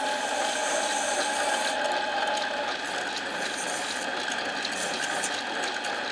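Harbor Freight mini lathe running steadily, its motor and gear train whirring and rattling as it turns a Briggs & Stratton camshaft. A steady whine in the sound fades about halfway through.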